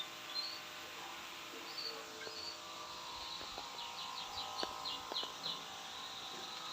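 Small birds chirping in an aviary, with a quick run of short chirps in the middle, over the steady hiss of artificial rain spraying on the leaves.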